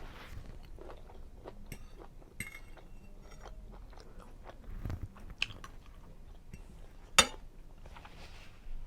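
Close-up chewing and mouth sounds of someone eating seafood linguine Alfredo, with scattered small wet clicks. One much louder sharp click comes about seven seconds in.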